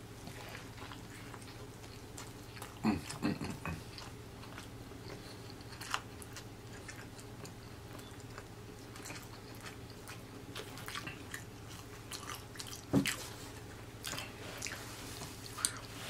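Close-miked chewing of a fried chicken sandwich: scattered wet mouth clicks and smacks, with louder clusters of mouth sounds about three seconds in and again near thirteen seconds, over a faint steady low hum.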